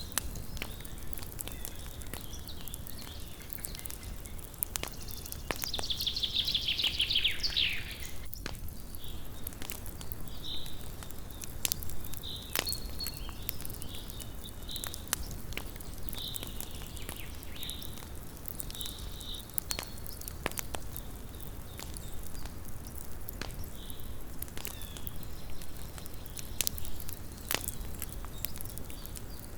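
Small wood campfire burning, with frequent sharp crackles and pops of the burning wood over a steady low background. About six seconds in there is a brief high, falling trill, and several short high chirps follow through the middle of the stretch.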